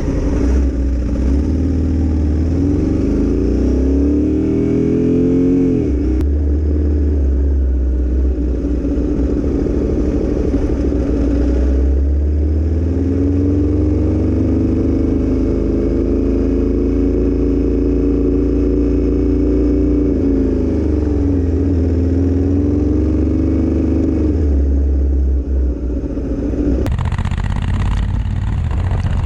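Motorcycle engine under way, its pitch climbing with the revs and then dropping as it changes gear, three or four times over, with a steady low rumble of wind and road beneath.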